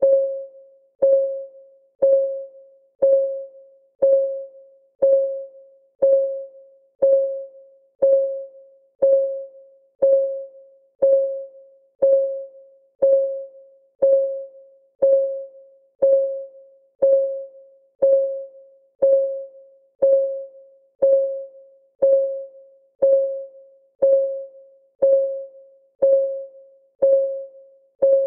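A countdown timer's ticking sound: one short, pitched tick each second, each ringing briefly and dying away before the next, steady and even throughout.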